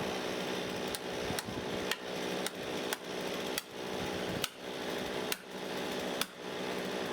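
A steady machine hum broken by sharp knocks, roughly one every half second to a second.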